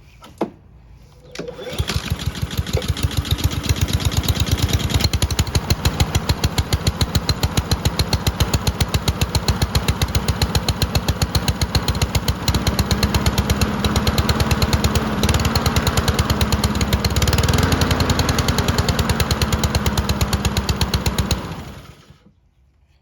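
Honda HRR216 lawn mower's single-cylinder four-stroke engine starting after its carburettor has been cleaned. It catches about a second and a half in and runs steadily for about twenty seconds, then cuts off near the end.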